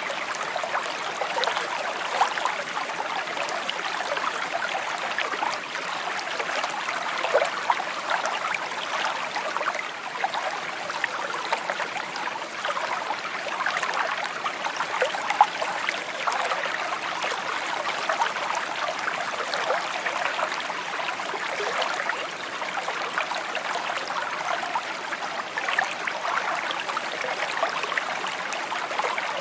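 A small stream flowing and babbling over stones, a steady trickling rush with many small bright splashes.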